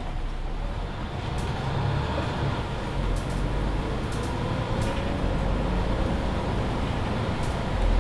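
Mercedes-Benz Citaro C2 hybrid city bus under way, heard from inside: a steady low drivetrain and road rumble with a faint whine rising in pitch around the middle as the bus gathers speed, and occasional light rattles.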